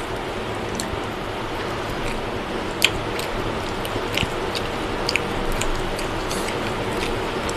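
A person eating mutton biryani by hand: chewing with scattered wet mouth clicks and smacks, the sharpest about three seconds in, over a steady hiss.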